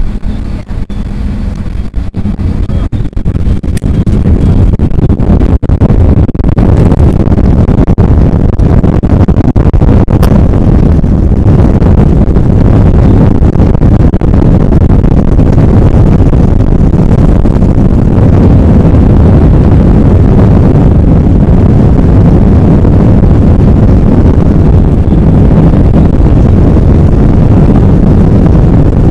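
Airbus A320 jet engines at takeoff power: a loud, low rumble that builds over the first four seconds and then holds steady.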